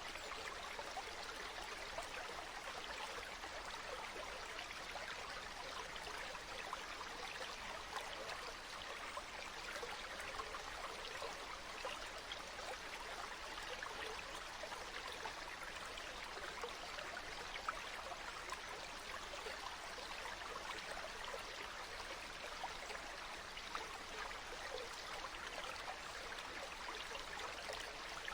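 Water flowing steadily in a stream, with a constant trickling rush.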